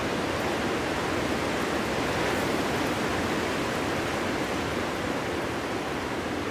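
Winter wind blowing steadily, a dense rushing noise that swells slightly a couple of seconds in and eases a little near the end.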